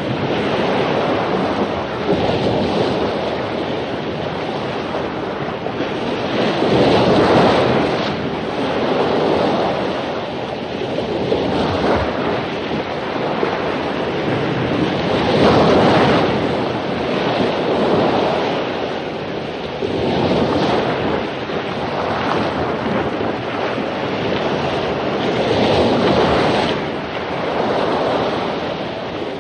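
Ocean surf after a storm: waves breaking on a beach, the roar of water swelling and easing every few seconds, with the loudest breakers about seven, sixteen and twenty-six seconds in.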